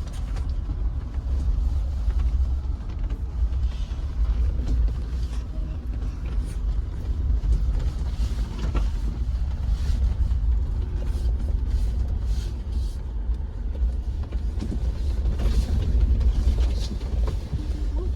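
Jeep driving over a rough, rocky dirt trail: a steady low rumble with scattered creaks and knocks from the body and suspension as it bounces over the bumps.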